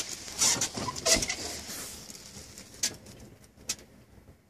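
Scattered light rustling and a few short sharp clicks, thinning out toward near silence.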